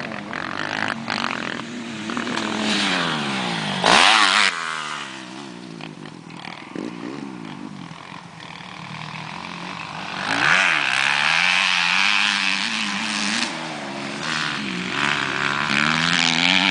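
Motocross bike engine revving hard and shifting through the gears, pitch climbing and dropping again and again. It is loudest when the bike passes close about four seconds in, its pitch falling as it goes by, and revs up hard again about ten seconds in.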